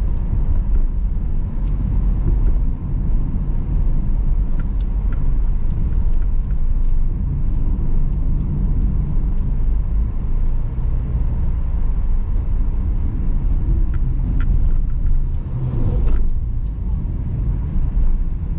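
Car driving: a steady low rumble of engine and tyre noise, with scattered small clicks and rattles.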